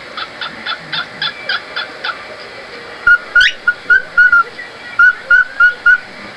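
A pet bird calling: a rapid, even series of short chirps, about three a second, for the first two seconds. About three seconds in it switches to a louder run of short whistled notes, with one quick upward-sweeping whistle among them.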